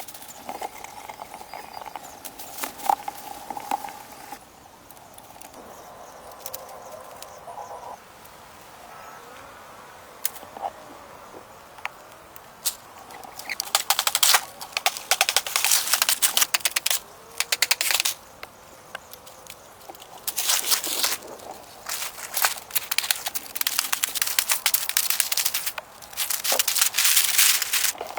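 Repeated bursts of dry crackling and crunching, each lasting a few seconds, with quieter gaps between them.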